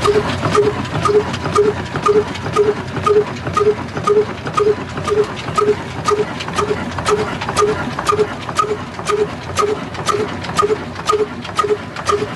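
Old diesel engine running at a slow, steady idle, each firing stroke a distinct beat at about two a second with a sharp knock on each.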